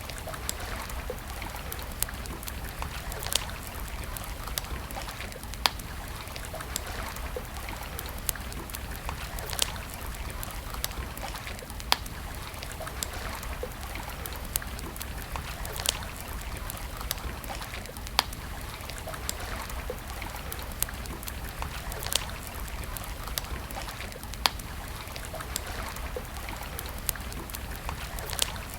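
Wood campfire crackling, with sharp irregular pops a few times a second, over a steady rush of flowing water from a stream.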